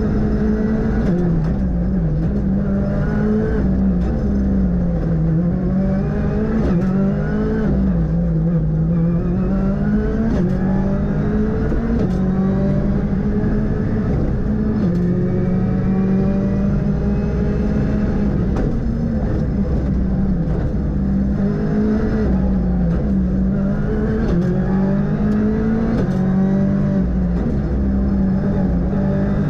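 Ford Fiesta R5's 1.6-litre turbocharged four-cylinder engine heard from inside the car at full rally pace, revs climbing again and again as it pulls through the gears and held in a narrow high band.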